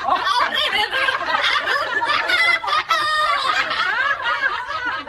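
People laughing hard without a break, several laughs overlapping, in cackling, snickering bursts.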